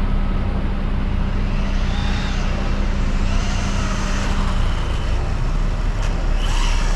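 Faint whine of the HyperGo 14301 RC car's KingVal 2845 5900kV brushless motor rising and falling as the car runs, over a steady low rumble.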